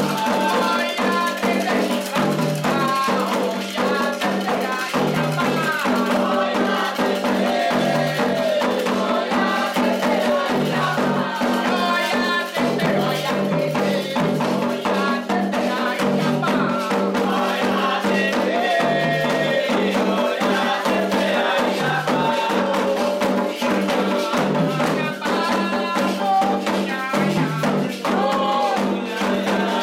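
Candomblé toque: ritual percussion with rattles and drums under singing voices, a steady rhythm that keeps going.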